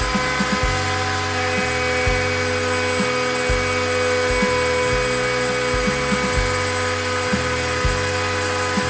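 Steady high whine of a CNC router spindle running, with background music that has a regular bass pattern.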